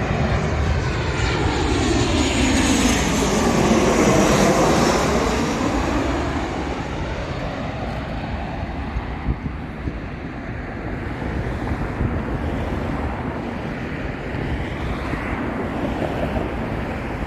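Jet airliner passing close by on its approach to land, its engine noise sweeping in pitch as it goes past. The noise is loudest about four seconds in, then eases off.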